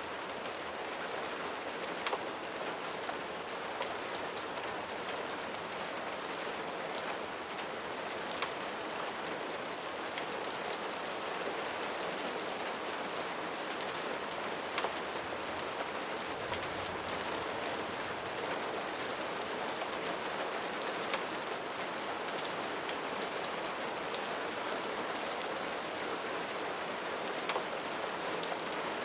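Steady rain falling and pattering on surfaces, with a few sharp ticks standing out at intervals of about six seconds.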